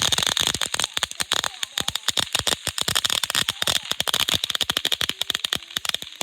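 Three consumer firework boxes chained together going off in a finale barrage: a dense, unbroken run of sharp cracks and crackling, several a second, over a steady hiss.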